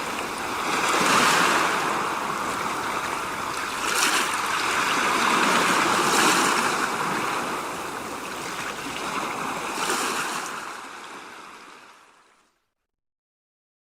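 A steady rushing sound like running water that swells and eases a few times, then fades out to silence about three-quarters of the way through.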